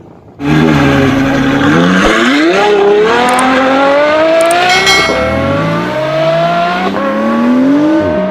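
Car engine accelerating hard through the gears, starting suddenly: the revs climb, drop at each upshift, about three times, and climb again.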